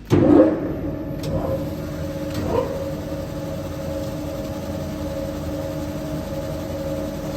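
Wire brush sanding and polishing machine switched on: a sudden loud start, two smaller surges in the first few seconds as it comes up, then a steady motor hum with a held tone.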